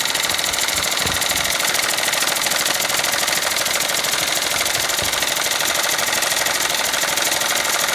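Small steam engines running steadily together, a fast even mechanical clatter over a hiss of steam.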